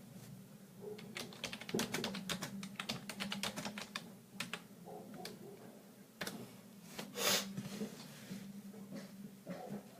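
Quick, light clicks and taps of small hand tools working toothbrush bristles, thickest in the first four seconds and sparser after, with a short hiss about seven seconds in, over a steady low hum.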